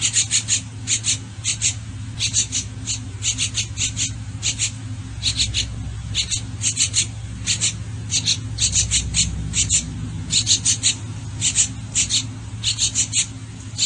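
Bird chirping: many short, sharp high-pitched chirps, often in quick runs of two to four, repeated irregularly over a steady low hum.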